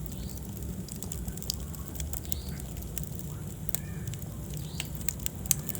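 Wood fire in a fireplace crackling, with irregular sharp pops and snaps over a steady low rumble of flame. One pop stands out just before the end.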